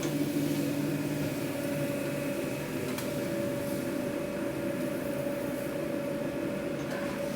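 Steady mechanical hum of food-truck kitchen equipment, an even drone with a constant tone running through it.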